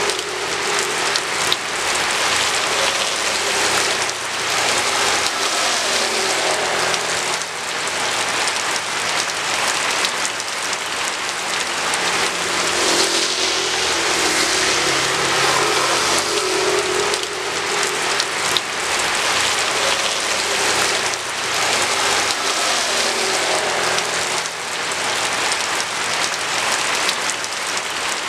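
Steady rain falling, with vehicles passing on the road now and then, their engine hum rising and fading every few seconds.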